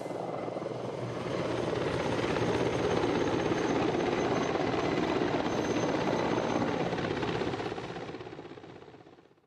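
Mi-35 attack helicopter's rotor and turbine noise, with a faint high whine, swelling over the first few seconds and then fading out near the end.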